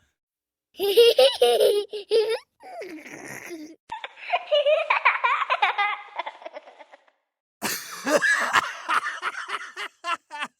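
Several different laughs played one after another, about four separate stretches of laughter with short silent gaps between them.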